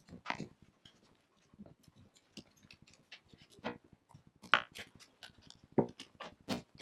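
Irregular light clicks and knocks of objects being handled and set down, with no router motor running. The loudest knocks come in the second half.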